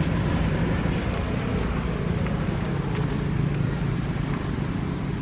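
A steady, low engine hum with a rough noisy layer over it.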